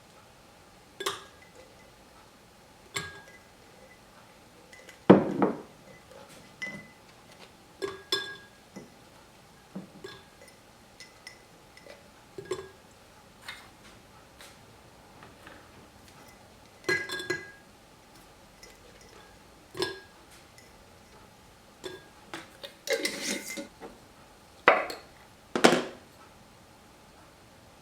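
Glass jar and kitchen utensils clinking and knocking at irregular intervals as ingredients are handled, some strikes ringing briefly. The loudest knocks come about five seconds in and again near the end.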